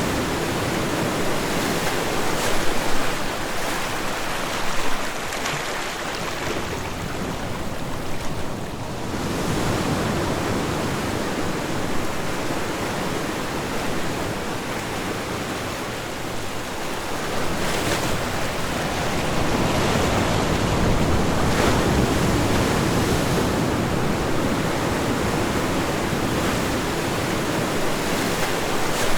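Ocean waves breaking and washing on a shore, a continuous rush of surf that swells and eases every several seconds, with a few brief louder crashes.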